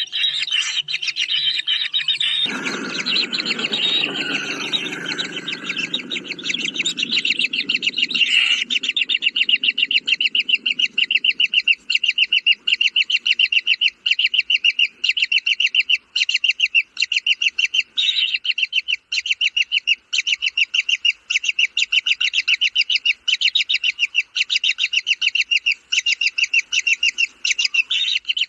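A kingfisher chick calling in a fast, steady string of short, high chirps, about five a second, typical of begging for food. A lower, rougher noise lies underneath during the first several seconds.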